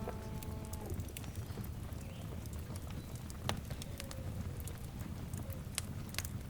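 Fire crackling with scattered sharp pops over a low steady rumble. A long, low animal call with a moo-like tone fades out within the first second.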